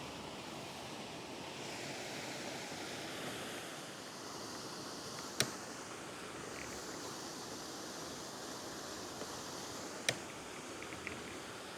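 Steady outdoor rush of river water and light wind, with two sharp clicks about five and ten seconds in and a few fainter ticks near the end.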